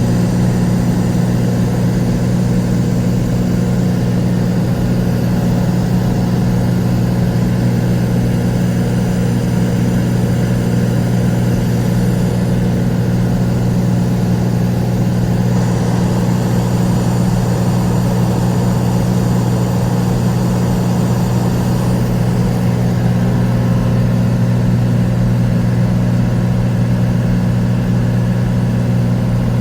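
Cessna Turbo 206's turbocharged six-cylinder piston engine and propeller, a loud steady drone at cruise altitude, with a slight shift in tone about halfway through.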